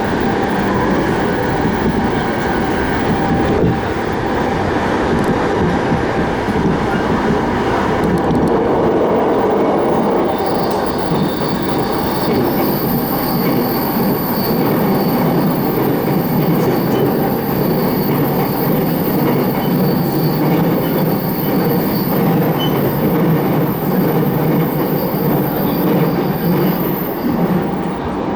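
JR Keiyo Line electric commuter train running at speed, heard from inside the passenger car: a steady, dense rumble of wheels and running gear. About ten seconds in, a thin high squeal joins and holds until just before the end.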